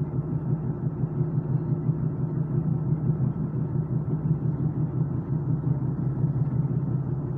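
Steady low rumble inside a Taiwan Railway Chu-Kuang express passenger coach as the train runs along the track.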